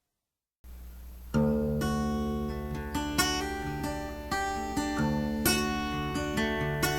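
Dead silence, then acoustic guitar strumming chords begins about a second in: the instrumental passage of a folk song.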